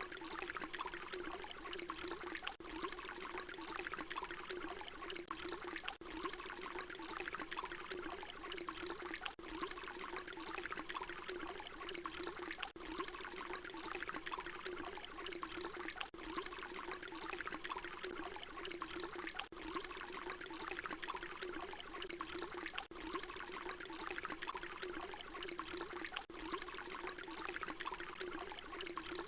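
Water pouring in a steady, continuous stream, a short recording looped so that a brief dip recurs about every three and a half seconds.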